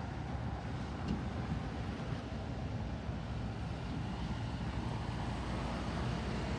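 Steady low rumble of a motor vehicle running, engine and road noise with no sudden changes.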